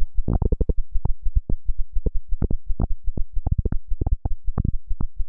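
A fast, uneven train of deep thumping pulses, about six a second, like a rapid heartbeat, with occasional brighter, sharper accents.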